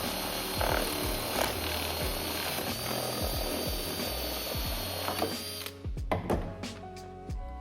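Power drill running steadily with a high whine, boring holes into the plastic intake airbox; it stops abruptly near the end and music with a beat takes over.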